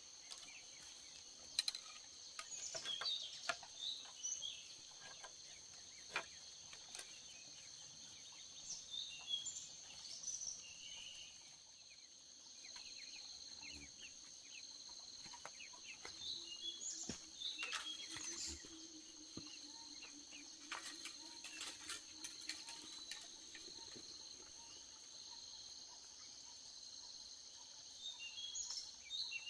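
Steady insect drone on two high pitches, with birds chirping in short bursts several times and scattered sharp clicks and knocks.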